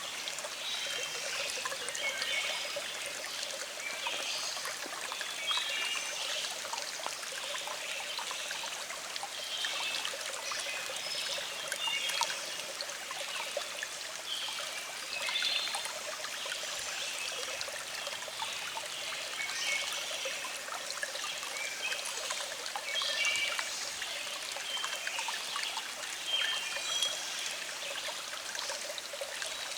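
A small stream flowing and trickling steadily over rocks, with a continual babble of small splashes and gurgles.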